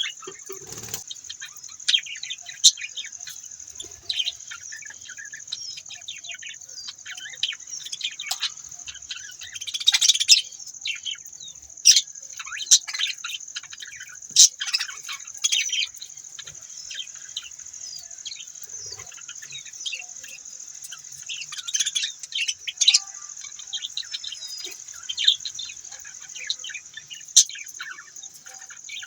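Budgerigars chirping and chattering: many short, sharp calls, some louder ones standing out every few seconds, over a steady high hiss.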